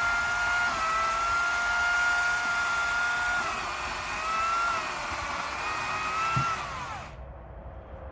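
Power saw running at high speed and cutting firewood, its whine sagging in pitch under load a couple of times, then winding down and stopping about seven seconds in.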